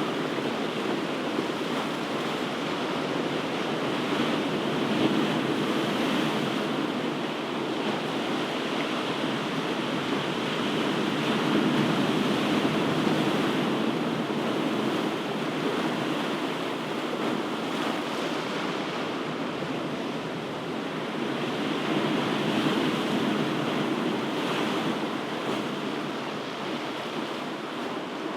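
Ocean surf: a continuous wash of breaking waves that swells and eases slowly, with no single sharp crash.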